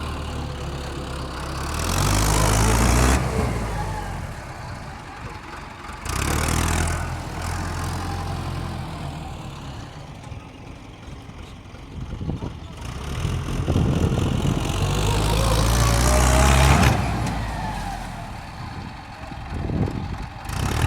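Mahindra tractor's diesel engine running, revving up three times and dropping back between.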